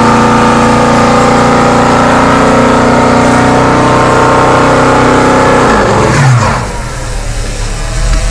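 Car engine running loud at high, steady revs, then dropping sharply in pitch and level about six seconds in.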